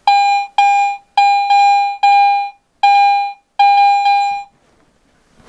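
Garrett AT Pro metal detector beeping: about eight loud tones, all on the same pitch, one after another, stopping about four and a half seconds in. These are its target responses as it is passed over metal.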